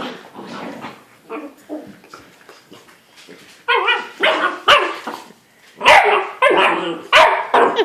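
Puppies barking and yipping in play: faint short sounds at first, then a run of loud, short barks from about halfway through.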